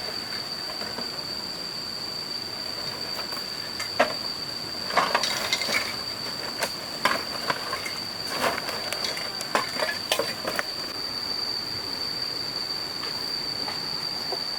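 A steady high-pitched whine, with a run of clinks and knocks between about four and eleven seconds in.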